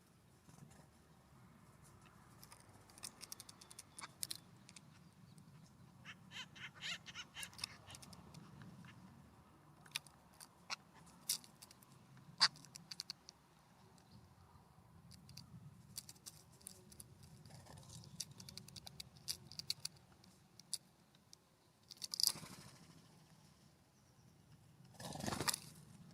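Birds pecking and scratching at seed on a ground feeder: a scatter of small taps and clicks, a quick run of them about seven seconds in, and two louder brief rustles near the end.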